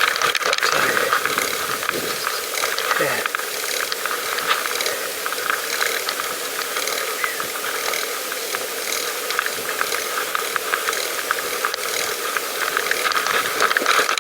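Pedal bicycle's rear freewheel ratcheting, a fast steady ticking, as the bike coasts along.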